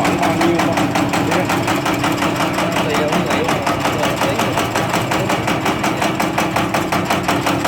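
Aloe vera dicing machine running: a steady motor hum with a fast, even clatter from the cutting mechanism.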